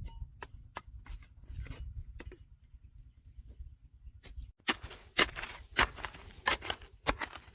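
Digging in stony river gravel: a hand tool scraping and knocking against stones. Scattered clicks come first, then a run of louder scraping strokes from about halfway, roughly two a second.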